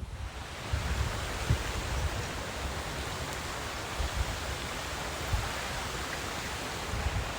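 Steady rush of flowing stream water, with a few low thuds of wind buffeting the microphone.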